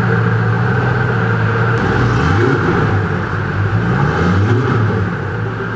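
Koenigsegg CCXR Trevita's twin-supercharged V8 idling, then revved twice briefly, at about two and four seconds in, its pitch rising and falling each time.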